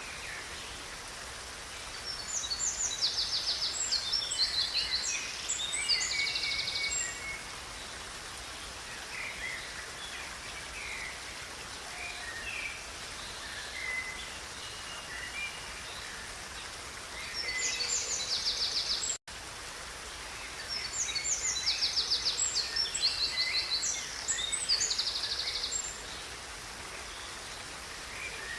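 River water running steadily under birdsong. A songbird sings long phrases of rapid, high trills, once about two seconds in and again about twenty seconds in, with scattered short chirps between. The sound cuts out for an instant just past halfway.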